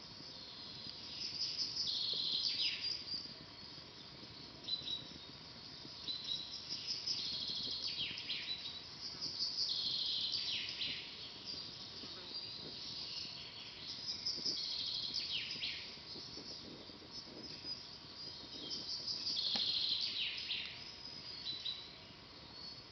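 A songbird singing the same short phrase about every four to five seconds, each song ending in a quick downward slide in pitch, with faint crackles of a wood campfire underneath.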